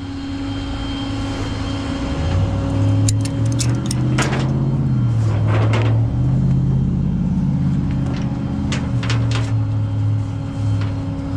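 Tow truck engine running, its low rumble rising about two seconds in and wavering, with a steady hum under it. A few sharp metallic clicks and clanks come in short clusters.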